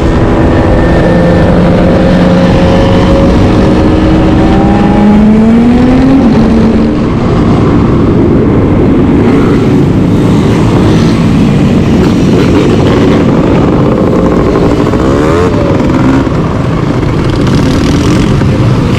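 Motorcycle engines running loudly, one revving up with a rising pitch about five seconds in, then a rough, noisy mix of engines with another quick rev up and down near the end.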